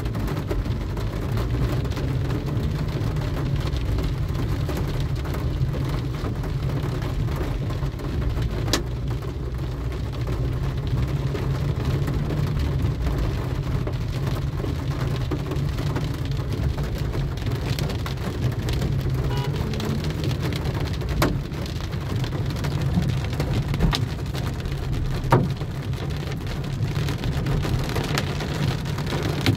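Heavy rain pouring on a car driving through a summer storm, over a steady low rumble from the moving car. A few sharp taps stand out here and there.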